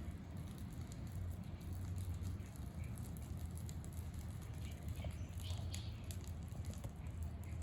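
Wood fire crackling with scattered small pops, more of them in the second half, over a steady low rumble.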